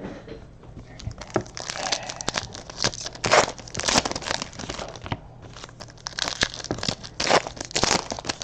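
Foil wrappers of basketball trading card packs being torn open and crinkled by hand, an irregular run of rustling and ripping with several louder rips.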